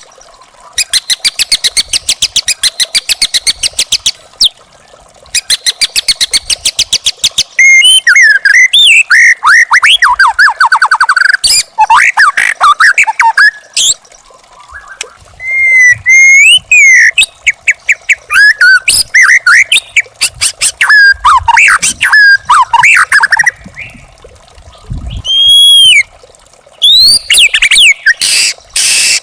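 White-rumped shama singing: fast rattling trains of short notes in the first seconds, then varied whistled phrases with rising and falling glides, broken by short pauses.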